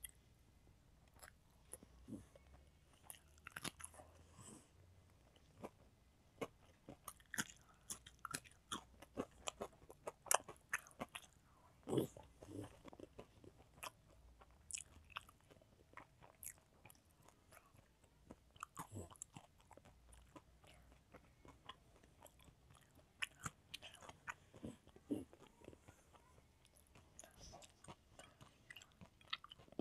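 Close-miked chewing and biting of a rice meal eaten by hand: irregular small mouth clicks and chews throughout, with a louder bite about twelve seconds in.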